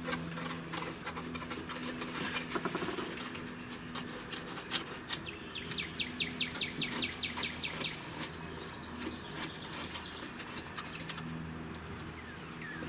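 A bird singing in quick runs of chirps, about halfway through and again near the end, over a steady low hum. Scattered light clicks and knocks come from a fish-finder display being handled and fitted onto its gimbal mount.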